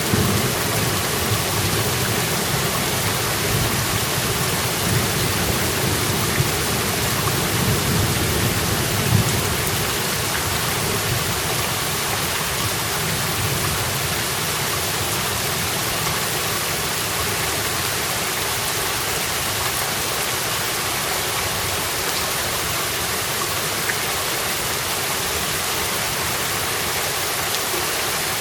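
Steady rain falling, with a low rumble of thunder dying away over the first ten seconds or so.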